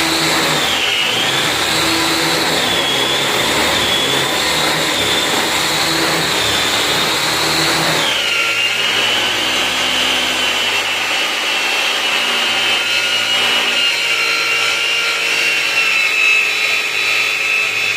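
Small electric motor of a handmade lathe running with a high whine over a rough mechanical rattle. The whine dips and recovers several times, then a little under halfway through drops to a lower, steadier pitch and the rough noise underneath thins out.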